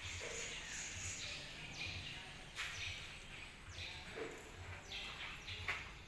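Small birds chirping inside a building: short calls that fall in pitch, repeated about once a second, over a steady background hiss and a low pulsing hum.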